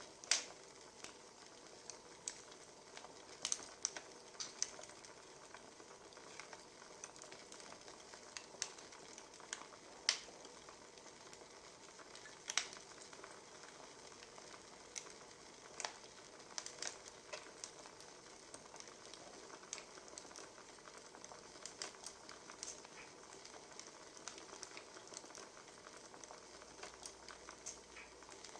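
Wood fire crackling: a steady faint hiss with irregular sharp pops, the loudest about a second in, at about ten seconds and at about twelve and a half seconds.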